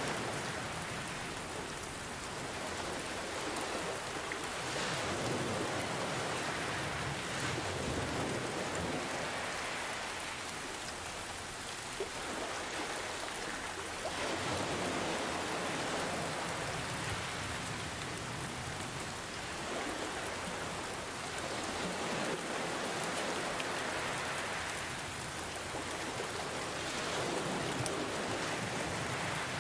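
Steady rain hiss blended with gentle ocean waves, the sound swelling and easing every few seconds as the waves come in.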